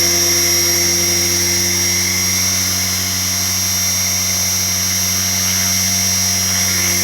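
Align T-Rex 470LP electric RC helicopter in flight on a 6S battery: a steady low hum from the spinning rotor blades with a high, constant whine from the brushless motor and gears.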